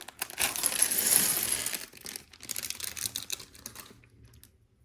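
Small plastic LEGO pieces clattering and clicking together as they are tipped and rummaged through from a plastic parts bag. The rattle is densest for the first couple of seconds, then thins to scattered clicks and stops about four seconds in.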